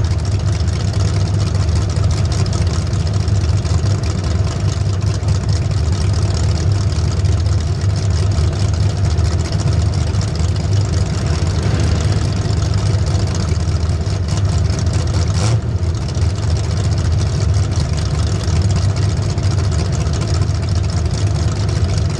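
A racing vehicle's engine running steadily and loudly, with no big changes in revs.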